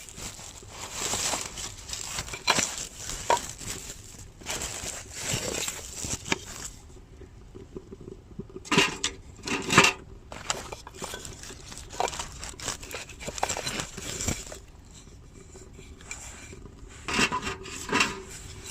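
Hands handling things at close range: rustling and crinkling with light scrapes and clinks, and a few louder knocks about nine to ten seconds in and again near the end.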